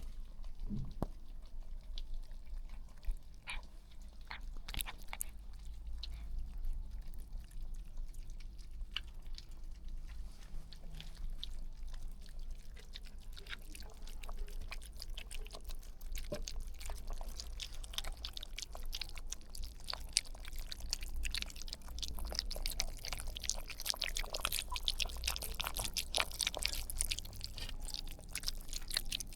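Puppies' mouth noises: a dense patter of small wet clicks and smacks like lapping or chewing, growing busier in the second half, over a low steady hum.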